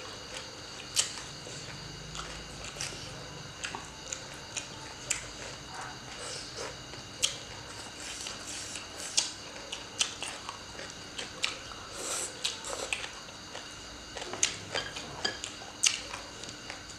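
Two people chewing and biting green papaya salad, raw vegetables and sausages, with irregular sharp crunching clicks.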